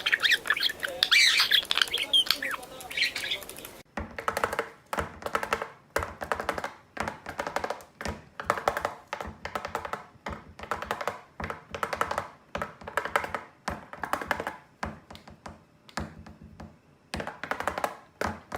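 Parrot squawking, harsh and high-pitched, for about the first four seconds. Then the sound changes abruptly to a run of short pitched sounds, roughly two a second, until near the end.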